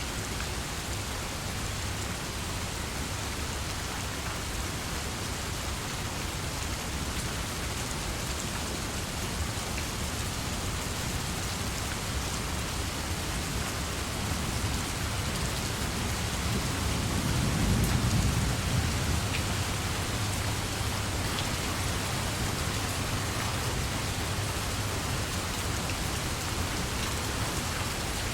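Steady heavy rain falling on surfaces. About two-thirds of the way through, a low rumble of thunder swells and fades.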